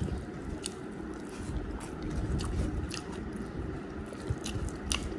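Close-miked chewing of a mouthful of rice and beef curry, with wet lip smacks and mouth clicks scattered through.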